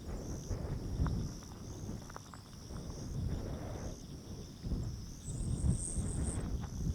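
Gusty wind rumbling on the microphone over a steady high-pitched chorus of trilling insects, with a brief higher buzz past the middle.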